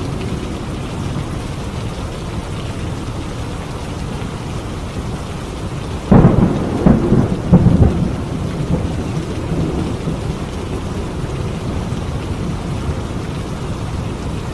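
Steady heavy rain. About six seconds in a close thunderclap breaks in, cracking three times over about two seconds, then rumbling off under the rain.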